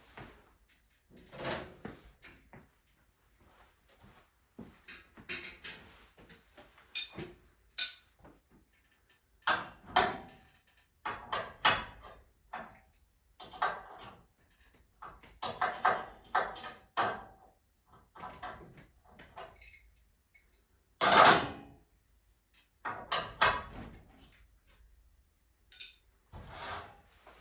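Irregular clanks, knocks and clatter of tools and metal hardware being handled during a garage door torsion spring job, with a louder knock about two-thirds of the way through.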